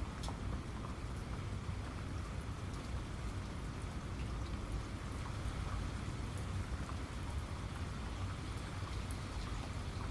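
Steady rain falling, with scattered individual drops ticking through it over a low, steady rumble.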